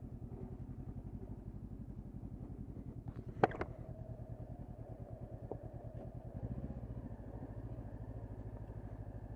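2013 Honda CB500X parallel-twin engine with a Staintune exhaust, putting along steadily at low speed during a slow roll-by. A brief sharp sound comes about three and a half seconds in.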